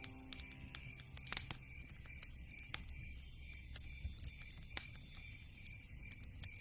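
Campfire crackling: scattered sharp pops and snaps at an uneven pace, with a couple of louder pops, over a regular high pulsing chirp.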